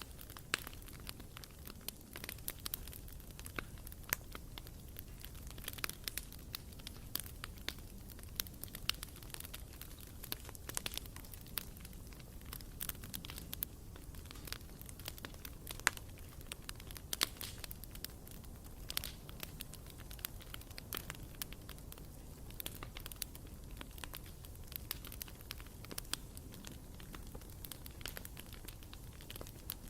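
Bonfire burning, with irregular sharp crackles and pops from the burning wood over a steady low rumble.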